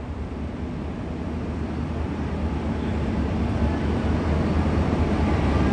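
Train approaching with a steady low rumble that grows gradually louder.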